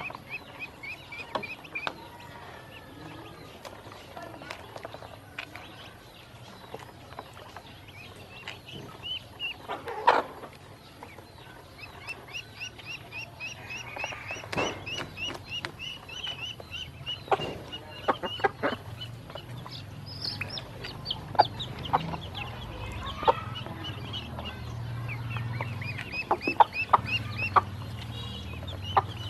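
A group of ducklings peeping in long runs of quick, high chirps, with scattered sharp taps among them.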